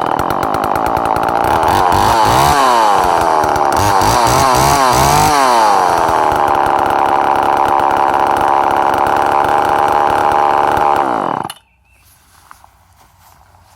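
Homelite EZ Automatic two-stroke chainsaw running, its throttle blipped about four times so the pitch rises and falls, then settling to a steady run before being shut off about two seconds before the end.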